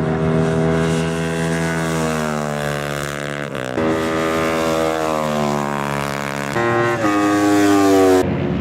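Racing motorcycle engines running at high revs, their pitch climbing and dipping with gear changes, with a sharp break about three and a half seconds in. A louder, higher engine note comes in near the end before the sound cuts off suddenly.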